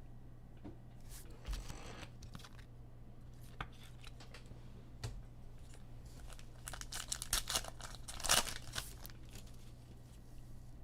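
Foil trading-card pack being torn open and its wrapper crinkled, with cards clicking and sliding. The crackling is busiest about seven to nine seconds in, over a steady low hum.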